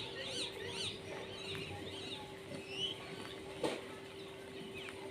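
Small birds chirping: a quick run of repeated high chirps in the first second, then scattered short calls, over a steady low hum. One sharp click a little after the midpoint.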